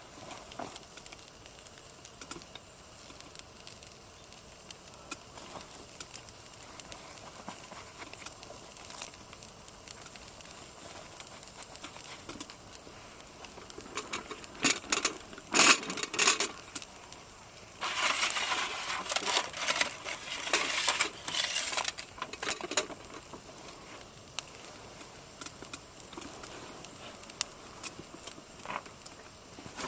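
Small campfire crackling with scattered sharp pops. Around the middle there are several seconds of louder, denser handling noise over it.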